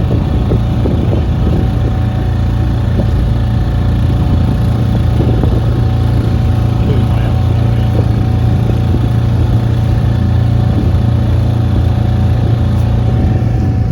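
A boat's engine running steadily, a constant low hum with a thin steady whine above it.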